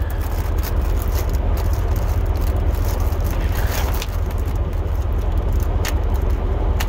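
Pickup plow truck driving, heard inside the cab: a steady low rumble of engine and road, with a few sharp clicks or rattles, one near the end.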